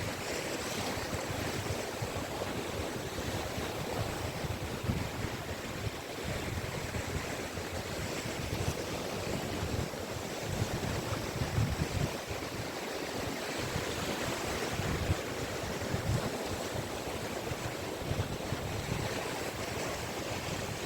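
Caspian Sea waves washing onto a beach in a continuous surf, with wind buffeting the microphone at the low end.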